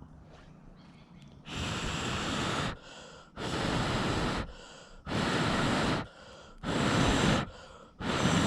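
A person blowing hard on smouldering embers to fan wet firewood into flame: five long blows of about a second each, with short breaths between.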